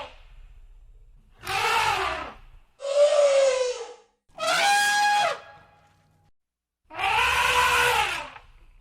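Elephants trumpeting: four separate calls of about a second each, with short pauses between. The second call falls in pitch and the third holds one steady tone.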